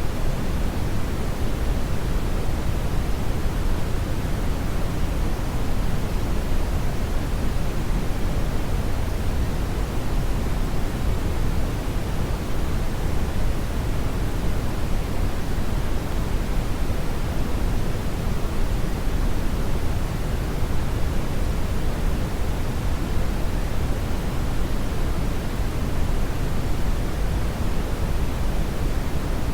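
Steady, loud brown noise: an even hiss-like rumble weighted toward the low end, with no change or events.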